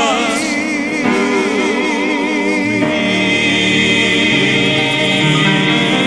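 Gospel singing with accompaniment: voices sing the word "precious" with a wavering vibrato, then about three seconds in the music settles into a steady held chord with low bass notes underneath.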